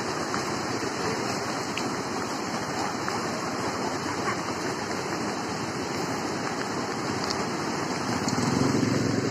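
Steady rushing of a rain-fed lahar flood, muddy floodwater surging along its channel. A low rumble comes up near the end.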